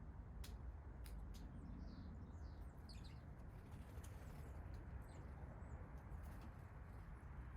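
Faint songbird chirps, a few short high calls bunched around the middle, with sharp high ticks scattered throughout, over a steady low rumble.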